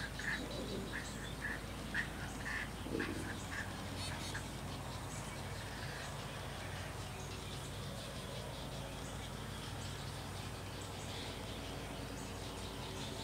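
Birds calling: a run of short, repeated calls, two or three a second, with a couple of lower, rougher calls among them, dying away about four seconds in. After that only a faint steady background hiss remains.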